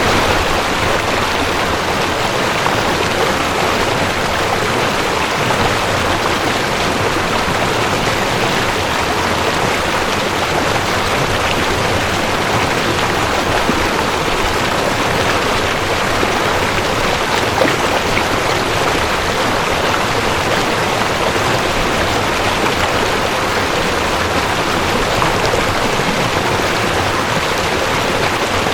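Cold mountain stream rushing over rocks: a steady, even rush of water.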